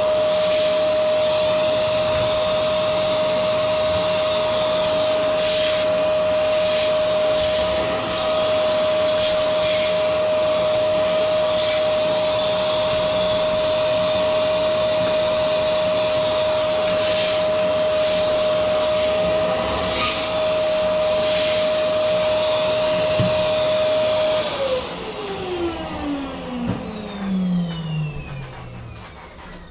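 Vacuum cleaner motor running steadily with a high whine. It is switched off about 25 seconds in, and the whine falls in pitch as the motor spins down.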